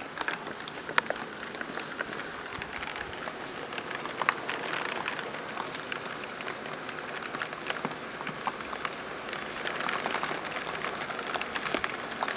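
Heavy rain pelting down, a steady hiss with many sharp individual drop ticks hitting close by.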